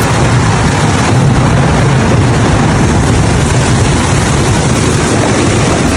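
Tornado winds rushing and buffeting a phone's microphone in a loud, steady roar.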